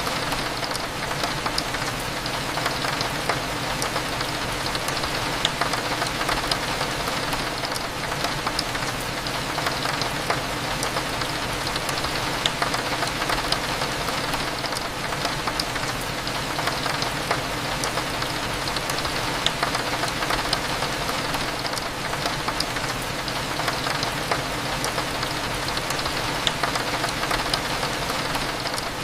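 Steady rain with frequent small drop clicks against window glass, over a low, even hum.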